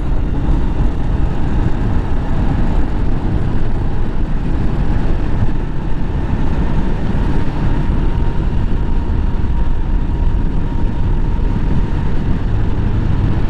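Motorcycle on the move, heard through a rider-worn microphone: a steady rush of wind buffeting with the engine running underneath and a faint steady whine.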